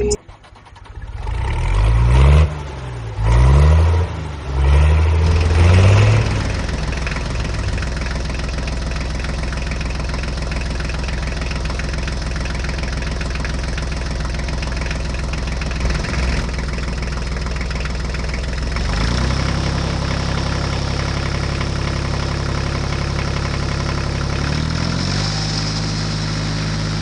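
Small motor of a DIY mini model tractor, revved up and down three times, then running steadily. Its pitch drops about two-thirds of the way through and rises again near the end.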